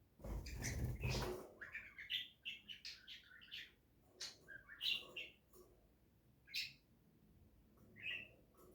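A pet budgerigar chirping in a run of short calls, then a few single chirps further apart. A louder, noisy rustle of about a second comes just before the chirping begins.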